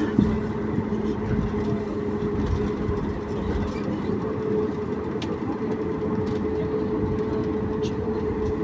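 Cabin noise of a Boeing 737 MAX 8 with its CFM LEAP-1B engines running at low power on the ground: a steady rumble with a steady hum, plus a few faint clicks.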